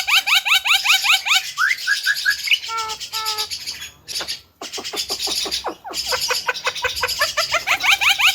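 Javan myna calling: a fast run of short rising chirps, about eight a second, that breaks off after a second or so into a few slurred whistles and two short clear notes, pauses briefly, then picks up again with falling notes and the fast chirping run near the end.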